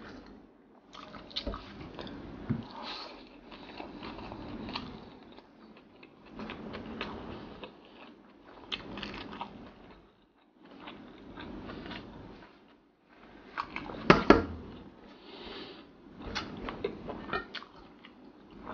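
Close-miked chewing and wet mouth sounds of someone eating rice and sardines, in stretches of a second or two broken by short pauses and dotted with sharp smacks and clicks. The loudest cluster of clicks comes about two-thirds of the way through.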